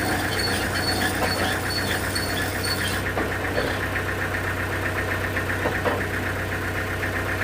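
Sawmill engine running steadily at idle, a constant hum with a fast, even knocking pulse.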